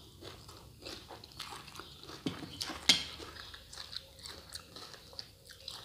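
A person chewing a mouthful of shredded green mango salad close to the microphone: wet, crisp crunching with scattered small clicks and a sharper crunch about three seconds in.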